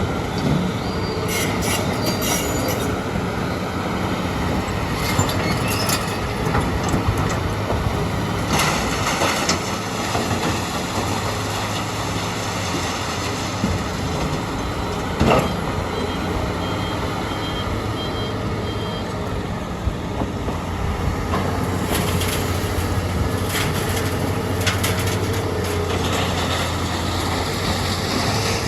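Diesel engine of a Hitachi EX200 excavator running steadily at work, with scattered knocks and clatter of sand and rock being dug and loaded into dump trucks. A short run of evenly spaced high beeps comes about two-thirds of the way through.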